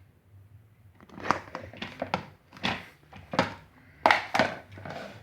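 Handling noise from a small plastic table fan being tipped over and set back down: a string of irregular knocks and rustles, the fan itself switched off.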